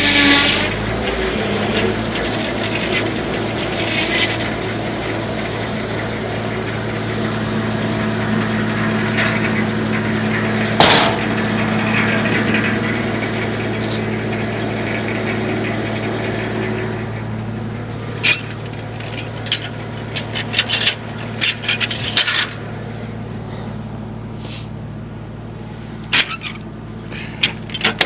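Tractor engine running steadily, driving a homemade circular sawmill; a saw cut ends just as it begins. A single sharp knock about eleven seconds in, then a run of sharp knocks and clatters through the last third.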